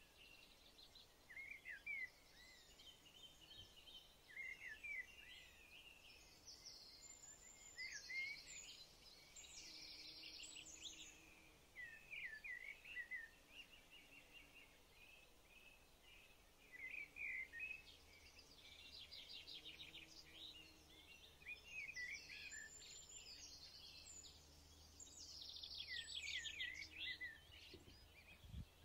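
Faint birdsong: clusters of short chirps and quick trills every second or two, over a faint low hum.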